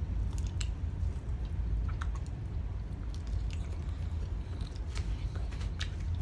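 Close-up chewing and biting into whole sauced chicken wings, with a constant deep rumble and scattered small wet clicks and crackles.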